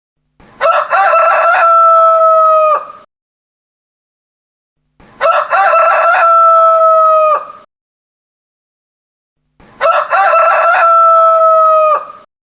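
Rooster crowing three times, each about two and a half seconds long: a choppy opening, then a long held note that drops off at the end. The three crows are near identical, one about every four and a half seconds.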